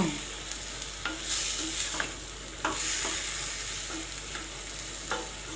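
Shelled green fava beans and onion sizzling in hot oil in a pot, with a steady hiss, while a stirring utensil knocks and scrapes against the pot several times.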